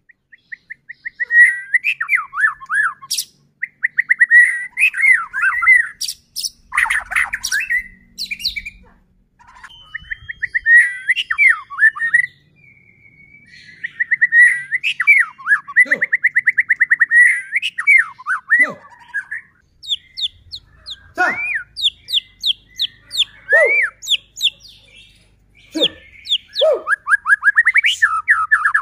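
White-rumped shama (murai batu) in full song: fast rattling trills, swooping whistles and sharp high notes in quick phrases, broken by a few short pauses.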